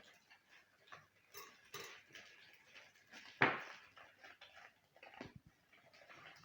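Small plastic game pieces and cardboard being handled: scattered light clicks and rustles, with one louder knock about three and a half seconds in.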